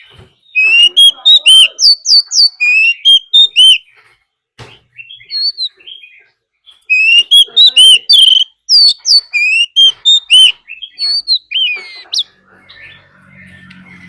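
Oriental magpie-robin singing its loud territorial fighting song: two long runs of rapid, varied whistled notes with sliding and looping pitches, separated and followed by softer, scattered notes.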